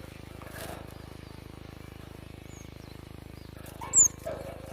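Cinereous tit (glatik watu) calling: a few faint high chirps, then a loud, sharp, high note sliding downward about four seconds in, over a steady low hum.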